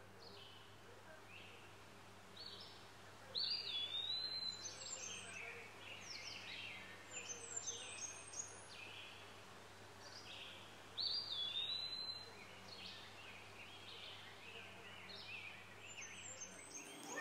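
Wild birds chirping and calling: a run of short, high chirps and down-sweeping calls, with a louder call about three seconds in and again about eleven seconds in, over a faint steady low hum.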